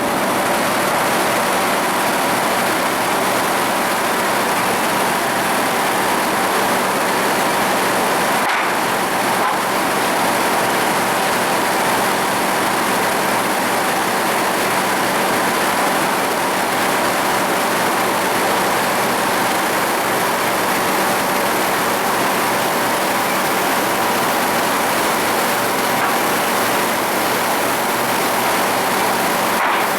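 Sawmill machinery running: a loud, even mechanical noise with a steady whine held throughout.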